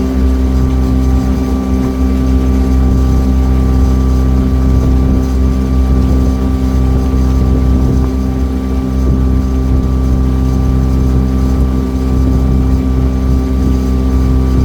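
Dondang Sayang cruise boat's engine running steadily, a loud, even drone that holds its pitch throughout.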